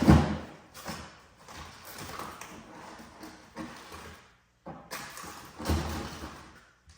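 Frozen food packages knocking and thudding as they are shifted around inside a freezer: a loud knock at the start, softer clatter, and another thud near the end.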